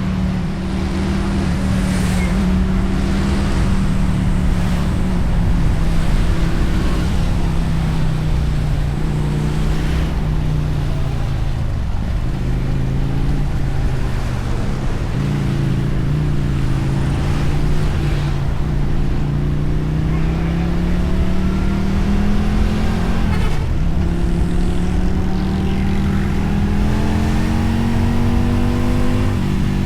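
Motorcycle engine and exhaust while riding. The engine note sags slowly through the middle, then climbs steadily, drops briefly about three-quarters of the way through as a gear is changed, and climbs again.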